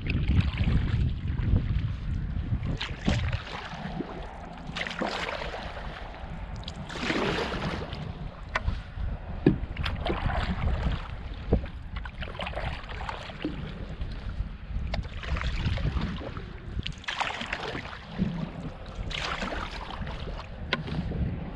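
Canoe paddling: a paddle swishing through the water about every two to three seconds, with a few sharp knocks. Wind buffets the microphone as a low rumble throughout.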